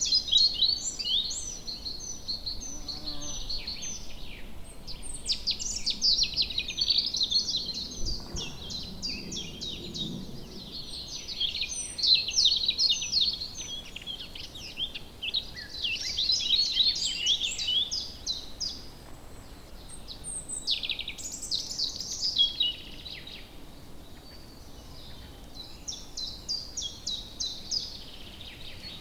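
Several songbirds singing and calling at once, with rapid chirps and trills overlapping throughout.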